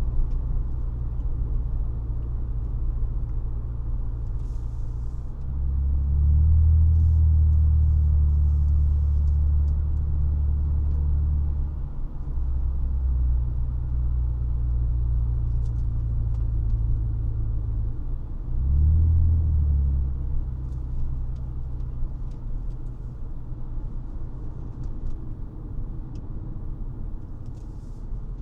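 1999 Honda Legend's 3.5-litre V6 exhaust running with a low, steady drone over tyre and road noise as the car drives. The engine note grows louder about five seconds in, dips briefly near the middle, swells again a few seconds later and rises once more at the very end.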